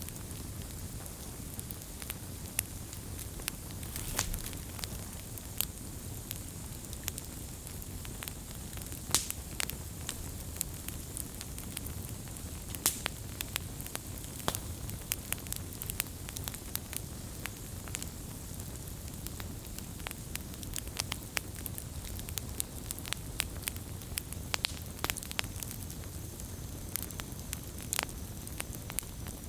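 Wood fire burning steadily, with a low rumble of flame under irregular sharp crackles and pops of burning wood.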